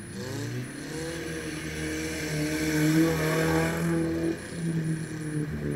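Lada Niva off-road racer's engine revving hard as it ploughs through a muddy water hole, its pitch climbing and stepping up and down and getting louder towards the middle. Water and mud splash under it.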